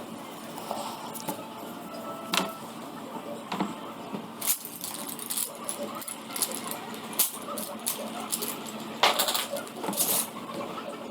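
Irregular light clicks and clinks of colouring tools being handled, picked up and set down, with a short busier clatter about nine to ten seconds in.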